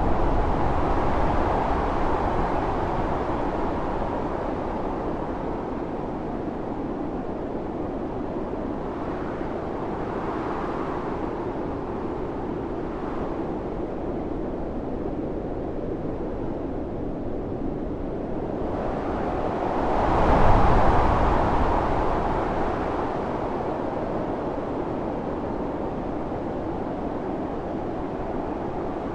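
Blizzard wind blowing steadily with rushing, noisy gusts, swelling into a strong gust about twenty seconds in before settling back.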